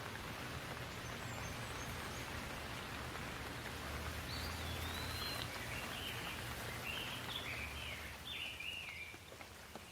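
Rain falling steadily, swelling a little and then easing near the end, while a small bird sings short, stepped, falling phrases in the middle.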